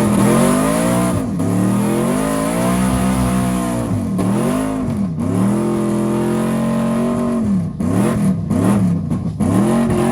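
Pickup truck engines pulling hard at full throttle in a drag race, the pitch climbing and dropping sharply at each gear change, about a second, four, five and nearly eight seconds in.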